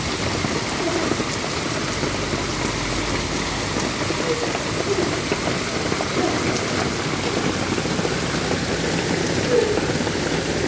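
Heavy rain with hail pelting down on surfaces, a steady dense hiss of countless impacts.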